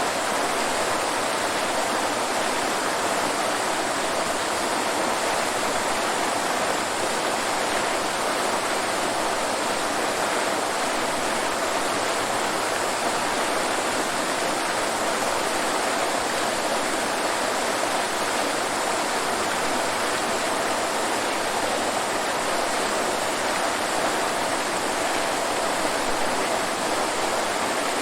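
Waterfall: water falling and rushing in a steady, unbroken hiss with no change in level.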